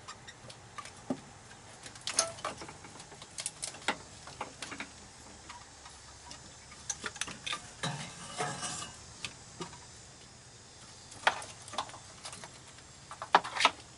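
Scattered light metallic clicks, clinks and knocks of tools and engine parts being handled on a car engine under repair, coming in irregular clusters, with the sharpest knocks near the end.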